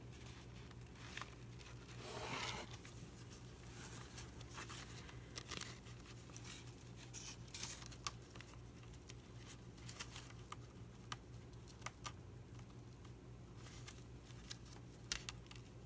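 Faint handling sounds of hand-sewing a paper book signature: soft rustles and light clicks as the needle and thread are worked through the holes, with a longer paper rustle about two seconds in. A steady low hum sits underneath.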